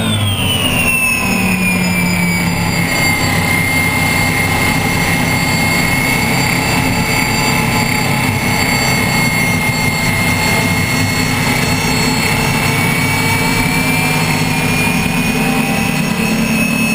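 Gas-turbine engine of an unlimited racing hydroplane at speed, heard from onboard. A high whine drops in pitch over the first couple of seconds and then holds steady over a deep continuous drone.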